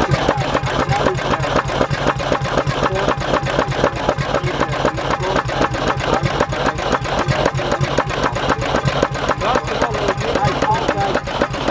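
Lanz Bulldog Typ HL's single-cylinder two-stroke hot-bulb engine running steadily, with an even, rapid beat of firing knocks.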